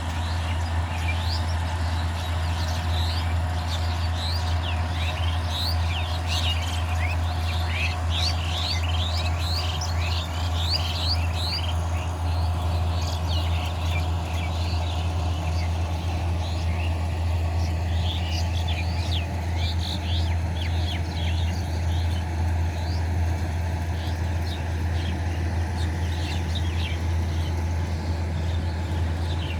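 Combine harvester engine running with a steady low drone, while many birds chirp over it in quick, short rising calls that come thickest in the first half and again about two-thirds through.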